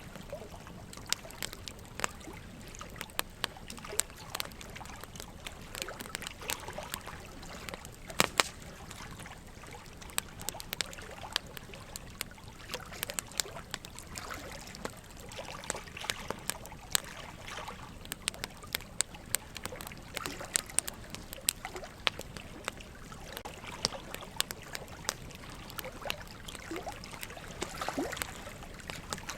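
Wood fire crackling, with frequent irregular sharp pops and snaps, the loudest about eight seconds in, over a steady trickle of running water.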